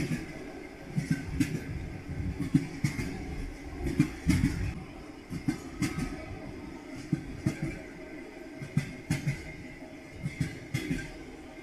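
Railway carriage wheels knocking over rail joints in repeated pairs and groups above a steady rolling rumble: the clickety-clack of a moving train.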